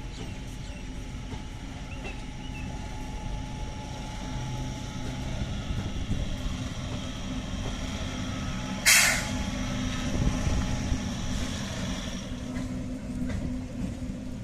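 MEMU electric multiple-unit train running past, a steady rumble of wheels on rail with a constant electric hum. Just under nine seconds in, a short, sharp hiss of released air.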